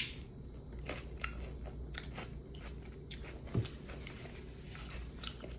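A person chewing and biting food close to the microphone, with soft, irregular crunching clicks.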